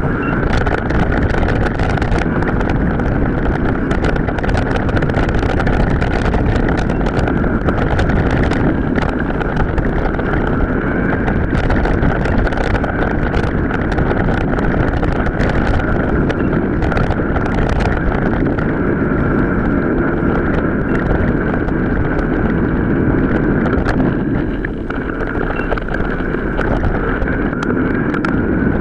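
Wind buffeting the microphone over the rattle and clatter of a mountain bike riding an off-road track, played back several times faster than real speed.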